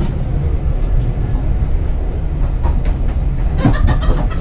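Train running on rails: a steady low rumble, with a few sharp clacks from the wheels over the rail joints near the end.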